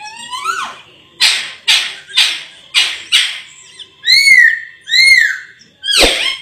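Raja perling (Sulawesi myna) singing a varied phrase: a rising whistle, a run of about five harsh rasping calls, two clear arched whistles, then another harsh call near the end.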